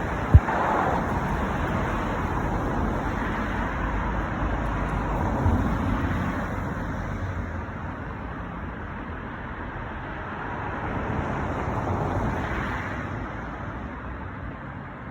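Road traffic passing steadily, with vehicles swelling louder about five seconds in and again near twelve seconds, then fading. A single sharp click sounds just after the start.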